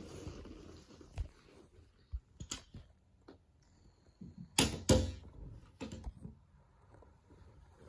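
Handling noise: scattered light clicks and knocks of Lego pieces and a phone being moved about, with two sharp, louder knocks close together about halfway through.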